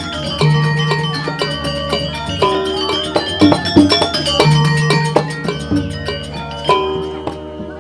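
Gamelan music: quick ringing notes struck on metal-keyed instruments over a low, sustained gong hum, fading down near the end.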